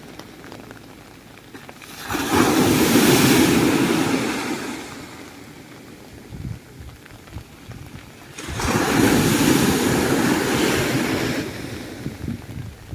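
Big storm waves breaking on the beach during a typhoon: two loud rushing surges about six seconds apart, each swelling and then fading, over a steady hiss of surf and wind.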